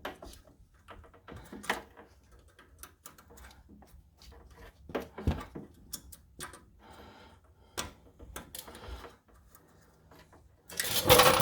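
Scattered clicks and knocks of hands working plastic wiring clips and metal parts on a wheel hub assembly, with a louder rattling scrape near the end.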